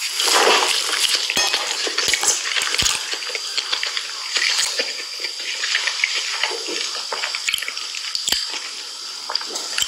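Chewing a crunchy panko-breaded southern fried chicken fillet burger: continuous crunching with many small clicks.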